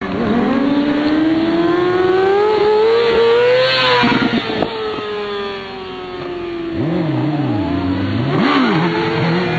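Sport motorcycle engine accelerating, its pitch rising for about four seconds, then easing off and falling slowly before climbing again near the end. Two quick revs rise and fall underneath it about seven and eight and a half seconds in.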